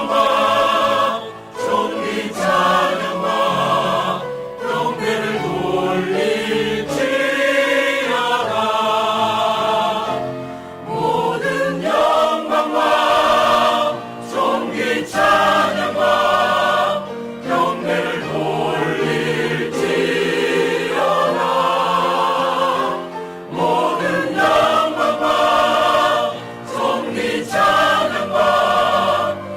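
Church choir singing a Korean hymn in parts, in sustained phrases with short breaks between them.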